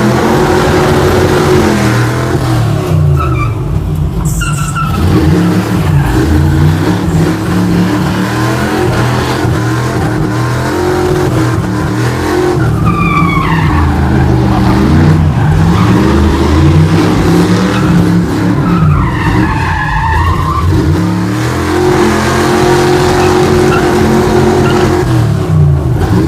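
V8 muscle car engine revving up and falling back over and over while spinning its tires, the tires squealing loudly.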